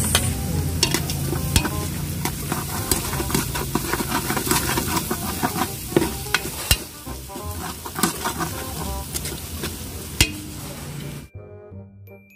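Oil sizzling in a large aluminium pot as chopped aromatics are sautéed, with a metal spatula scraping and clicking against the pot's sides and bottom. About a second before the end it cuts to light, tinkling background music.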